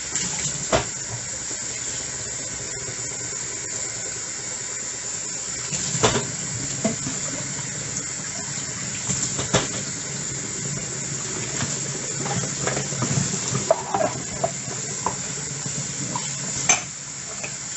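Dishes being washed in a sink under running tap water: a steady rush of water with plates and cutlery clinking and clattering now and then, the loudest knocks about a second in, around six and nine and a half seconds in, and near the end.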